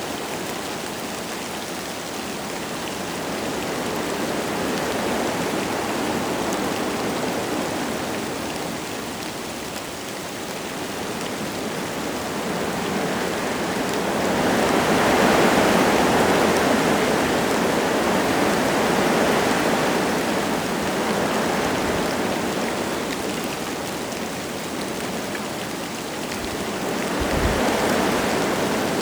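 Wind gusting through forest trees with light rain falling, a steady rushing noise. It swells into its strongest gust about halfway through and rises again near the end.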